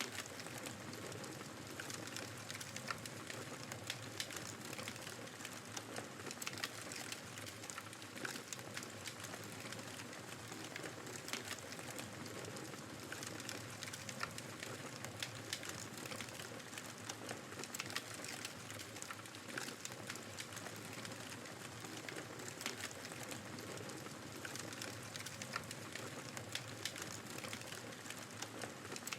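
Fireplace crackling, a dense run of small pops and snaps, over the steady hiss of a snowstorm's wind.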